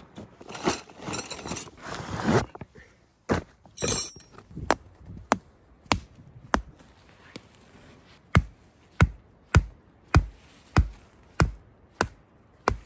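A couple of seconds of rustling, then a steady run of sharp strikes, about a dozen, roughly one every 0.6 s: a mallet driving tent stakes into the ground while pitching a canvas bell tent.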